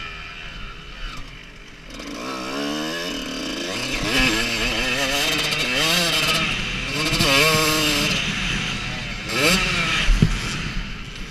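Motocross bike engine revving hard, its pitch climbing and dropping several times as it accelerates and shifts, with a sharp knock near the end.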